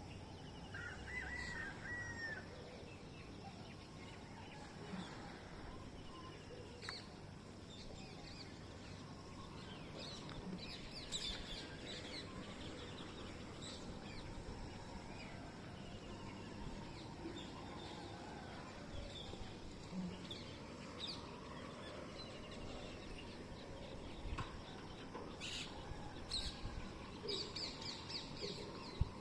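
Birds calling: scattered short chirps and calls at irregular intervals, with a faint background hiss.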